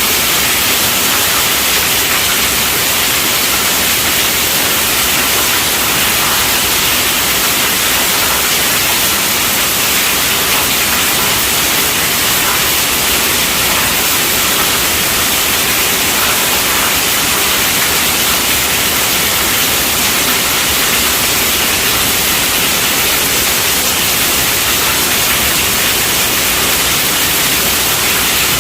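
Steady rainfall, an even hiss that holds constant throughout.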